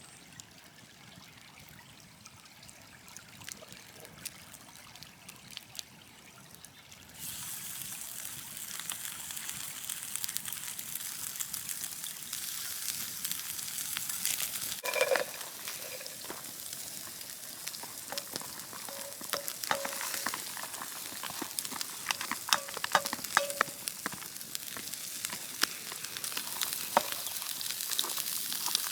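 Food frying in a pan over a campfire: a sizzle starts suddenly about seven seconds in and carries on as a dense hiss with crackling pops.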